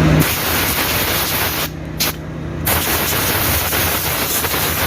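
Compressed-air blow gun blasting air through a truck's air filter element to clean out the dust: a loud, steady hiss with two short breaks about two seconds in.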